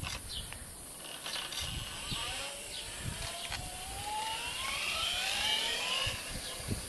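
Turnigy brushless RC motor on an electric moped spinning up, its whine rising steadily in pitch from about two seconds in, with a few clicks and rattles before it.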